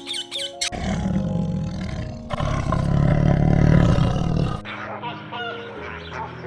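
A large animal roaring: a long, low, rough roar that starts under a second in, grows louder partway through and stops a little past the middle, over soft background music.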